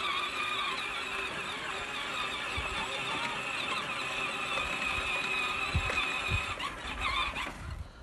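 John Deere tractor running with a steady, high-pitched whine that wavers slightly and stops about seven and a half seconds in, with a few low thumps along the way.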